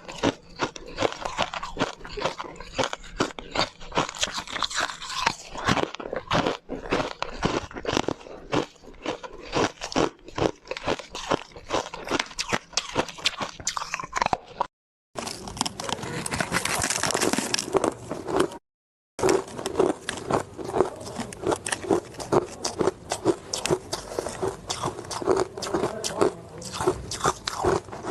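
Ice being bitten and chewed, close to the microphone: rapid, irregular crunches. The sound drops out to silence twice, briefly, about 15 and 19 seconds in.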